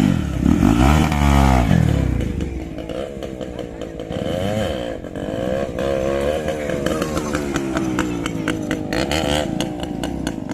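Hero Xpulse 200 single-cylinder motorcycle engine revving up and down over and over, loudest in the first two seconds, with a run of sharp clicks about nine seconds in.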